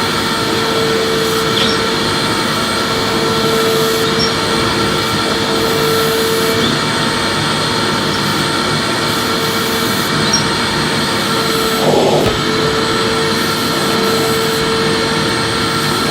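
Vacuum cleaner running steadily while being used to vacuum, a constant rushing noise with a steady whine. The whine drops out for a few seconds in the middle and comes back, and there is a brief bump about three-quarters of the way through.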